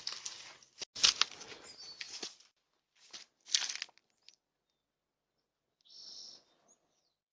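Leafy branches rustling in irregular bursts, with a sharp snap about a second in. It goes quiet for a while after about four seconds.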